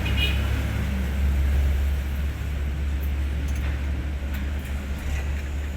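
Diesel engine of a Hino 500 truck running steadily with a deep, even drone, and a few faint clicks over it.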